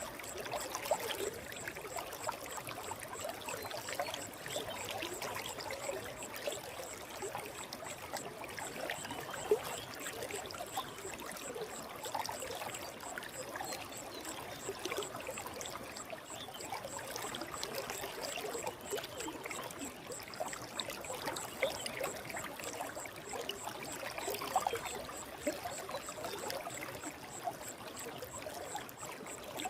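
Forest stream running over rocks: a steady babble of water with many small splashes throughout.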